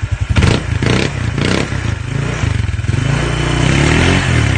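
Motorcycle with an aftermarket MT8 exhaust pipe being revved for a sound check: three quick throttle blips in the first second and a half, then the engine climbs in pitch and holds higher revs near the end.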